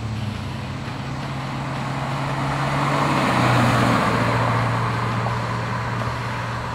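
1995 Chevrolet Corvette's LT1 350 V8 driving past at steady road speed: the engine drone and tyre noise swell as it approaches, are loudest a little past halfway as it passes, then fade as it pulls away, with general traffic noise around it.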